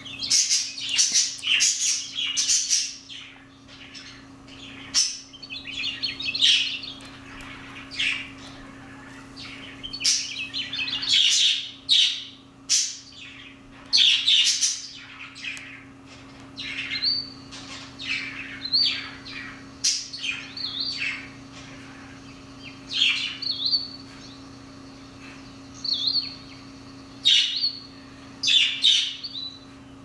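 Small birds chirping in quick bursts of high notes throughout, with a few thin, held whistled notes in the second half, over a steady low hum.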